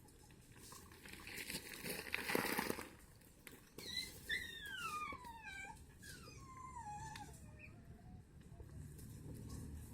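A bird giving a few faint, high calls that each slide down in pitch, starting about four seconds in, after a brief rustling noise.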